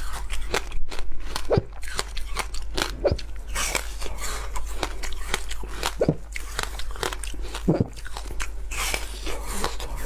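Frozen passion fruit ice being bitten and chewed close to the microphone: dense, irregular crunching and crackling throughout.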